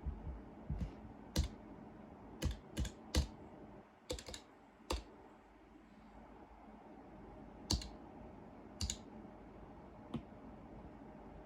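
Keys of a homemade keyboard being pressed one at a time, sharp separate clicks at irregular spacing, about a dozen in all: a quick run in the first five seconds, a pause, then a few more scattered presses.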